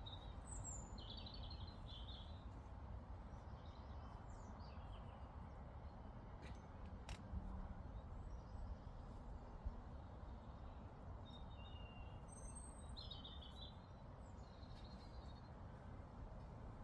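Faint steady outdoor rumble, like wind on the microphone, with songbird phrases: a burst of chirpy song about a second in and another about twelve seconds in. A couple of faint clicks fall in between.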